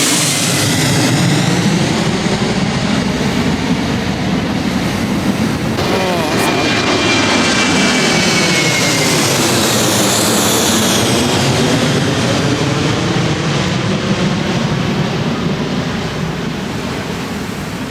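Jet airliner's engines running loud as the aircraft passes low overhead, a heavy rushing roar with a whine that sweeps slowly up and down.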